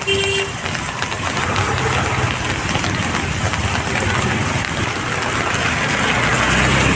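Road traffic: vehicle engines running under a steady wash of noise, with a short horn toot right at the start.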